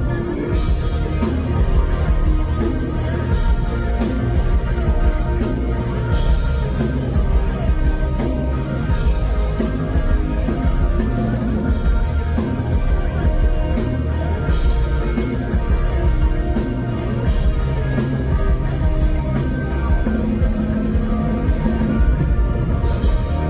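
Live rock band playing loud: electric guitars over bass and drums with a steady beat. Near the end the cymbals stop and a low chord rings on.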